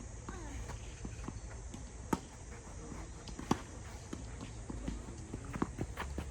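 Tennis ball impacts: two sharp knocks about a second and a half apart, with lighter knocks and footsteps on the court near the end, and faint distant voices.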